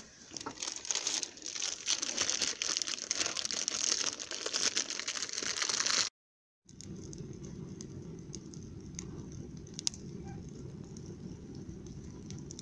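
Campfire crackling, a dense run of snaps and hissing, that cuts off abruptly about six seconds in. After a brief gap it is followed by a steadier low rumble with only a few faint crackles.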